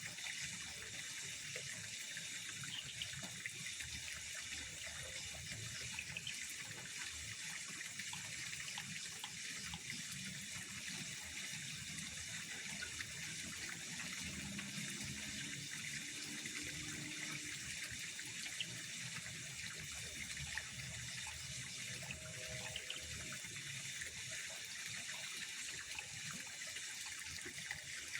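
Water trickling and running steadily, a continuous hiss with no break.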